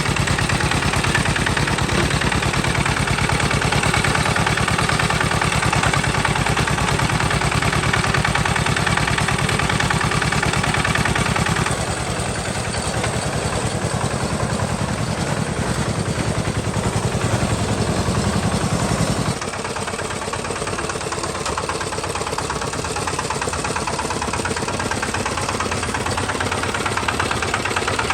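Tractor engine running steadily with a fast, even firing beat. The sound changes abruptly twice, about twelve and nineteen seconds in, each time becoming a little quieter and lower.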